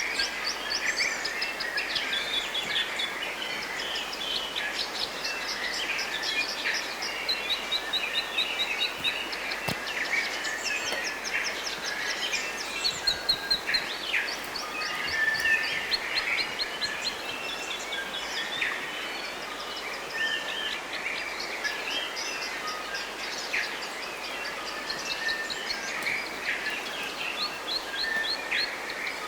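Several forest birds singing at once, a dense mix of rapid trills and chirps overlapping continuously, over a steady background hiss.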